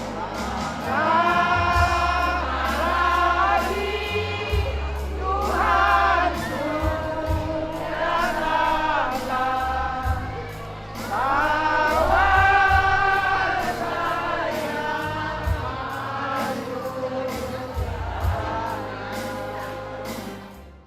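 Voices singing together, hymn-like, over music with long, deep bass notes; it fades out at the very end.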